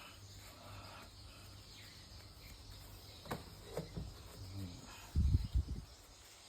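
Work on a twin-tub washing machine's gearbox: a few light clicks, then a quick run of dull low knocks about five seconds in, over a faint steady hum.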